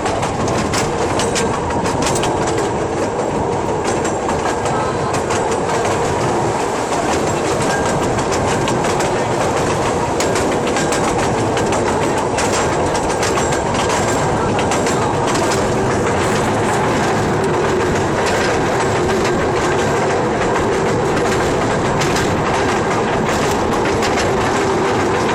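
Train running along the track: a steady rumble with wheels clicking and clacking over the rails.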